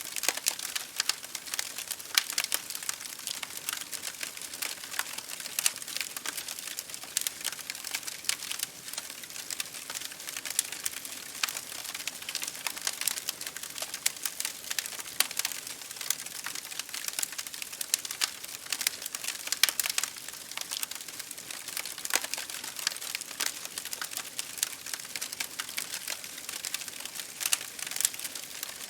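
Wood fire crackling in a fireplace, dense irregular crackles and pops, over the steady hiss of rain on a window pane.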